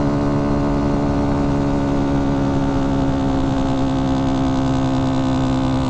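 Kawasaki Z125 Pro's single-cylinder four-stroke engine, fitted with a 143 cc big-bore kit, running under load at steady, held revs while climbing a hill, with wind noise.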